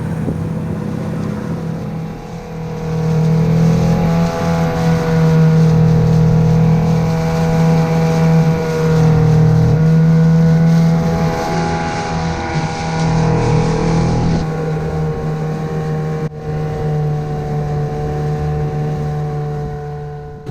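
Boat engine running steadily, its pitch wavering a little, louder for several seconds in the first half.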